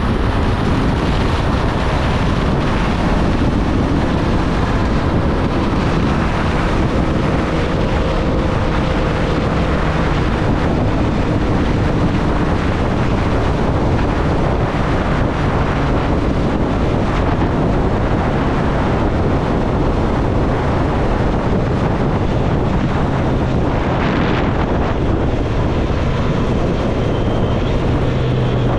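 Triumph Street Triple's inline three-cylinder engine running under way, its note shifting in pitch, largely buried under heavy wind rush across the microphone.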